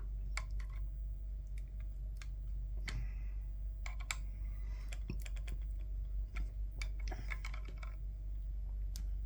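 Irregular light clicks and taps of small plastic headset parts and a screw being handled and fitted during a headset repair.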